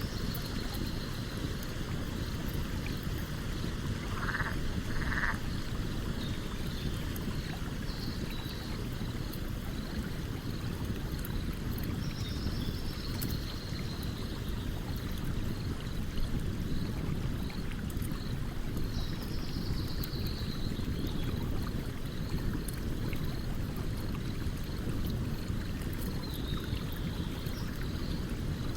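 Stream water running steadily beside a crackling campfire, with small sharp pops of the burning wood scattered through. Short high chirping calls come now and then over the water noise.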